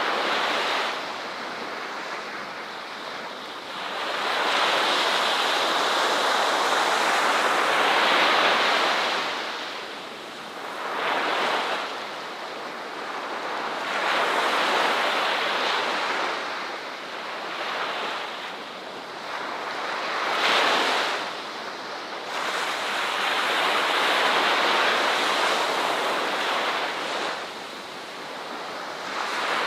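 Ocean waves breaking and washing up a beach in slow surges, each swell of surf rising and falling over a few seconds, about six in the span.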